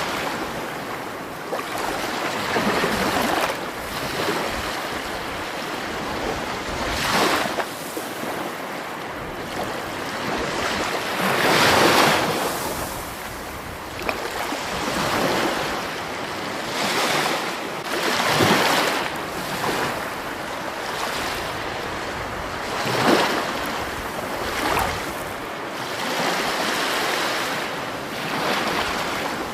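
Rushing water, a steady wash that swells into louder surges every few seconds.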